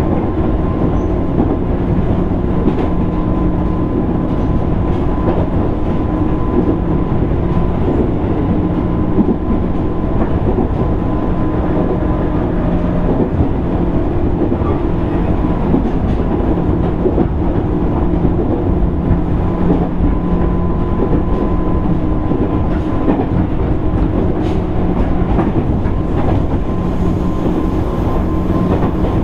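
The running sound inside a JR East 205 series 600 subseries electric train car (MoHa 204-604) moving along the line: a steady rumble of wheels on the rails with a continuous hum, loud and even throughout.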